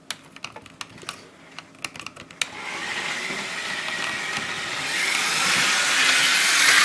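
Tyco electric toy train running on its track: light irregular clicking, then a steady whirring that starts about two and a half seconds in and grows louder.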